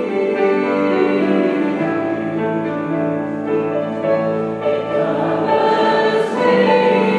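A choir singing in harmony, with long held chords that change every second or so.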